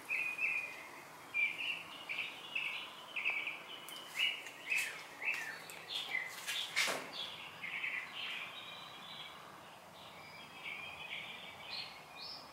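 Small birds chirping outdoors in short, quick repeated calls, with a few sharp ticks about halfway through.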